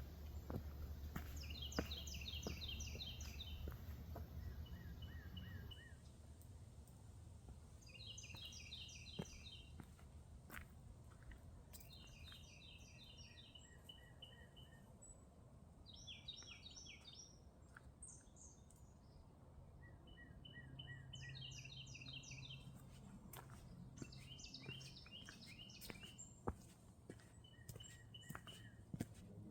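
A songbird singing, repeating the same short phrase of rapid high notes about every three to four seconds, with scattered faint clicks underneath.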